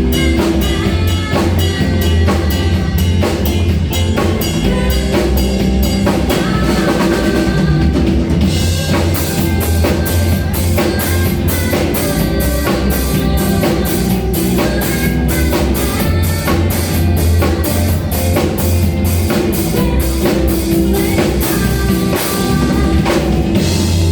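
Band music with a drum kit keeping a steady beat under bass and pitched melodic instruments.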